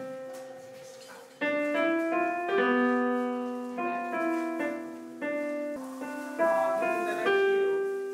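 Piano playing slowly: single notes and chords struck and left to ring and fade, with a quieter held note in the first second or so before the playing picks up again.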